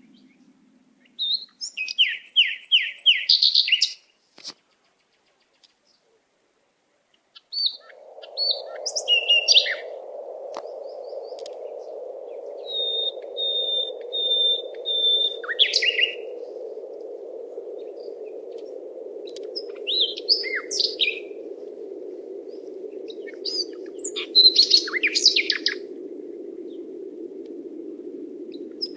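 Birds calling: short trills and whistled chirps, including a run of evenly repeated high notes, with a brief silent pause early on. From about a quarter of the way in, a steady low rushing sound runs beneath the calls.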